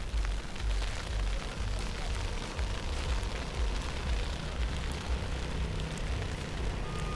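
Snowstorm wind buffeting the microphone in uneven gusts, a low rumble over a steady hiss.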